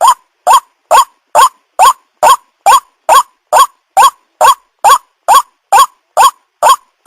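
White-breasted waterhen (ruak-ruak) calling: a steady series of short, loud calls, each rising in pitch, repeated about two a second.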